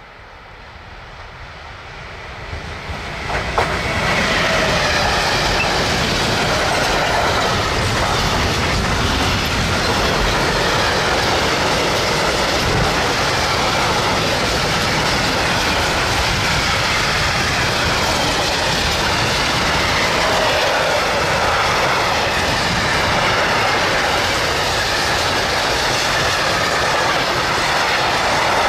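Freight train of open wagons approaching and passing close by, its wheels clattering over the rail joints and switches. It grows louder over the first four seconds, then stays loud and steady as the wagons roll past.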